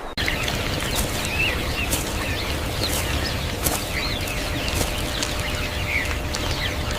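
Birds chirping, many short chirps scattered over a steady rushing background noise, with occasional clicks.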